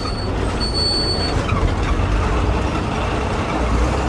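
Moving bus heard from inside, with a steady low engine drone and road noise. A thin high tone sounds twice in the first second and a half.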